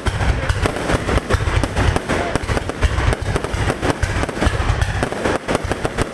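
Fireworks going off in a dense, continuous barrage of bangs and crackles, with deep booms underneath.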